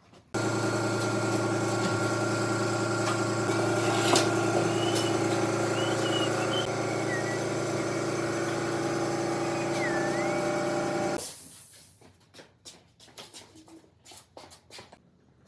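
Electric power tool motor running steadily for about eleven seconds, starting abruptly and stopping near the end, followed by a few light knocks and clicks.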